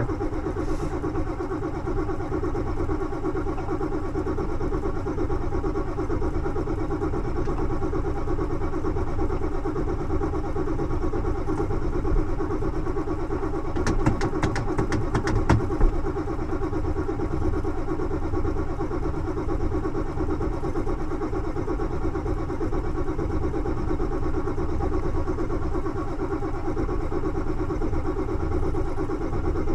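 Ford F-250's diesel engine running at a steady idle, with a brief run of clicks about 14 seconds in.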